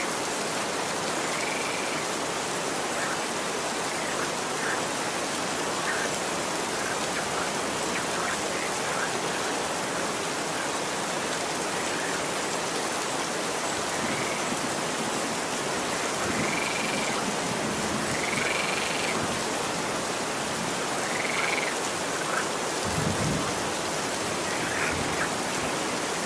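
Steady rain falling, with short high chirping calls every few seconds, more of them in the second half. A brief low rumble comes near the end.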